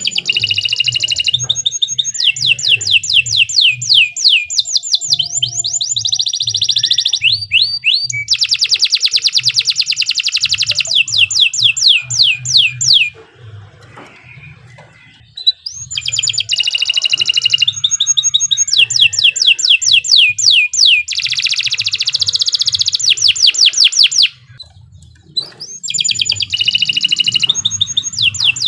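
Domestic canary singing long phrases of rapid rolling trills, each made of fast, evenly repeated notes, with two short pauses partway through. The singing is the full, sustained 'gacor' song of a canary in form.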